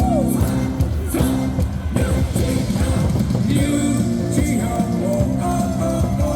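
Loud, continuous rock-style music with singing, played over a ballpark's public-address system.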